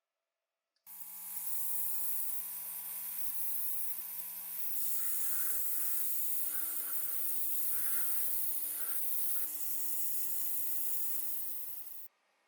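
A small electric motor runs steadily with a high hiss, starting about a second in and cutting off suddenly near the end. Its tone shifts about five seconds in.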